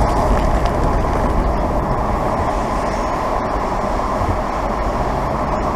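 Steady rumble and rushing noise of a moving car, heard through an open window, with a few faint ticks.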